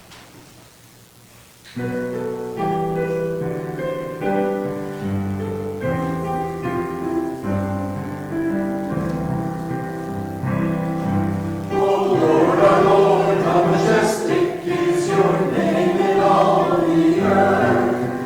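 Piano begins a hymn about two seconds in, playing sustained chords, and near the twelve-second mark a congregation joins in singing with it.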